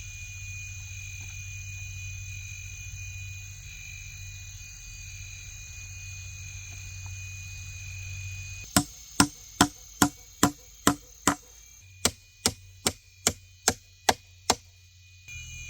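Rainforest insects droning steadily with a pulsing high tone. About nine seconds in, this gives way to a blade chopping wood or bamboo: fourteen sharp strikes about two a second, in two runs of seven with a short pause between.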